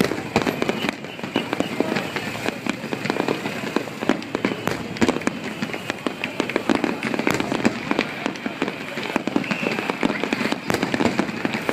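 Aerial fireworks bursting in a dense barrage: many sharp bangs and crackles a second, close together and without a break.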